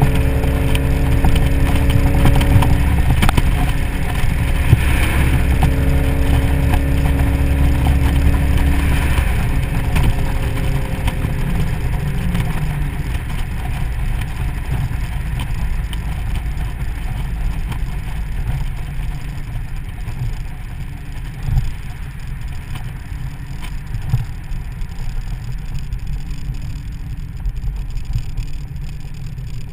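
2003 SVT Mustang Cobra's supercharged 4.6-litre V8 droning steadily at highway speed, mixed with wind rush and road noise over the open convertible cabin. About ten seconds in the engine note fades and the sound drops to a quieter rumble of tyres and wind as the car slows.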